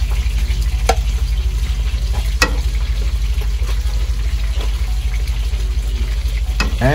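Food frying and sizzling in a pot over a steady low rumble, with a few sharp clicks about one, two and a half, and six and a half seconds in.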